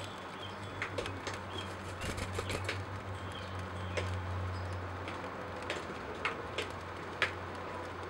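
Birds at a nest: a few faint, short, high chirps, then scattered sharp clicks as an adult bird arrives at the nestlings, the loudest near the end, over a steady low hum.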